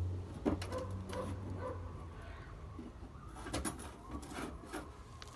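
A low hum dying away over the first two seconds, then scattered light knocks, clicks and scraping of metal parts being handled and fitted.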